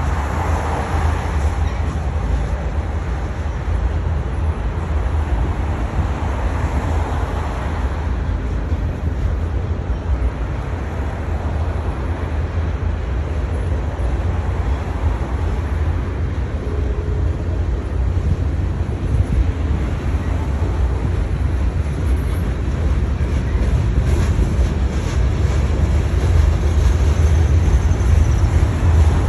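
Long freight train rolling past, a steady heavy rumble that grows slightly louder near the end.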